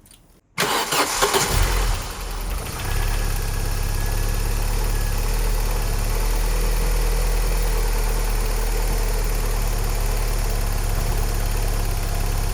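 1992 Vauxhall Cavalier's C20NE 2.0-litre four-cylinder engine cold started after sitting for days: the starter cranks briefly about half a second in, the engine catches, revs up and settles by about three seconds into a steady idle. No tapping is heard on this cold start.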